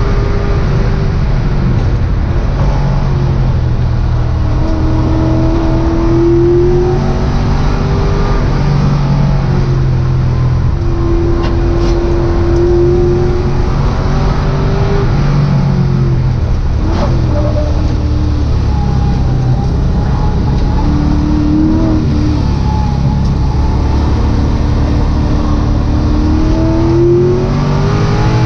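LS V8 engine of a V8-swapped Mazda Miata heard from inside the race car's cockpit, driven hard on track. Its pitch climbs several times under acceleration and drops back in between as the car shifts and slows.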